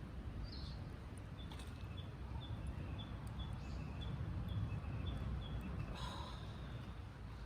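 A bird calling in a run of short high chirps, about two a second and alternating between two pitches, then a louder call near the end, over a steady low rumble.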